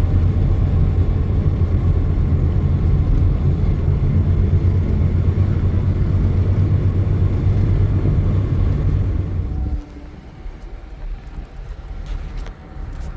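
A steady low rumble that drops away suddenly about ten seconds in, leaving a quieter background with a few faint clicks.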